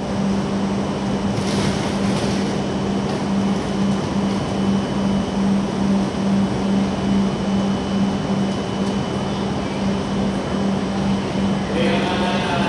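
JR West 683 series limited express electric train running in on a distant track. A steady rumble of rail noise is heard, with a low hum that pulses a couple of times a second. A voice comes in near the end.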